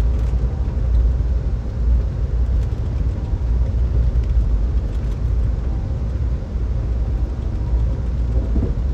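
Amtrak California Zephyr passenger train rolling along, heard from inside the passenger car as a steady low rumble of wheels on track.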